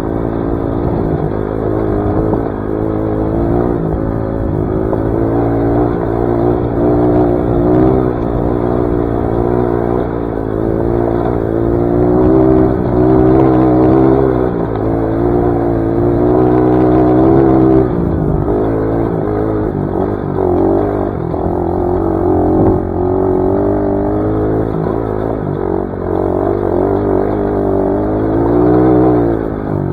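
Dirt bike engine under way on a trail, its pitch rising and falling as the throttle opens and closes, with a drop in revs a little past halfway and a rev-up near the end.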